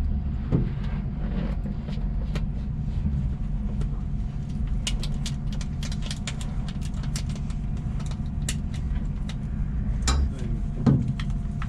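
Twin-turbo Hemi drag-car engine idling steadily, heard from inside the car, with scattered sharp clicks and ticks over it.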